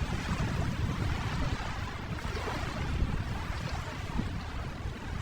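Ocean surf washing steadily, a continuous rushing wash of waves.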